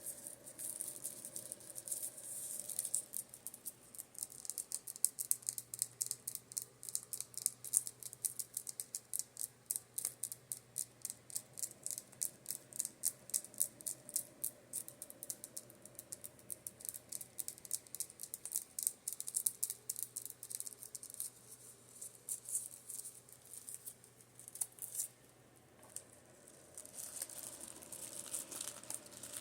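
Makeup brushes being tapped in a quick, crisp run of light taps, several a second, with a steady fan hum underneath. The tapping stops briefly near the end, then turns softer and scratchier.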